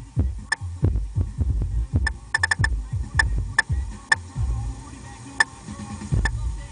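Car-audio subwoofers (two 10-inch Buster and one 12-inch Bravox) playing a song, heavy deep bass pulsing, with sharp clicking hits over it.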